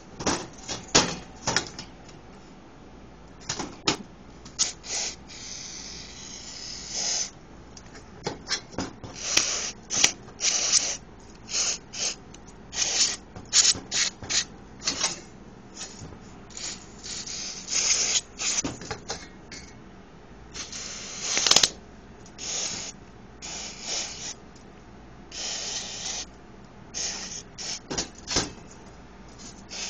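Irregular scraping, rubbing and clicking of hands and tools working on a small RC nitro engine during cleaning, with a few longer hissing rushes lasting about a second, about six seconds in and again near the end.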